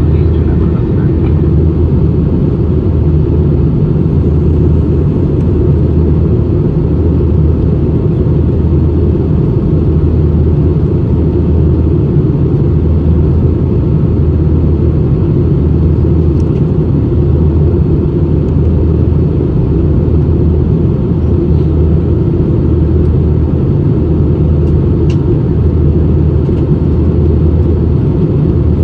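Steady, loud cabin drone of a British Airways Airbus A320 with its two engines running, pulsing in a slow, regular throb.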